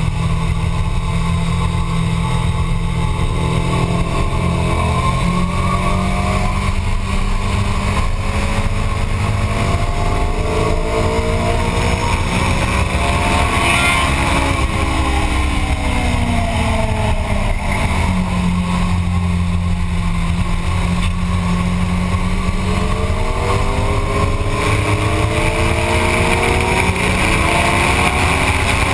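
Motorcycle engine heard onboard at speed with a steady low rumble. The engine pitch rises, falls away in the middle, holds low for a few seconds, then climbs again as the revs change around the track.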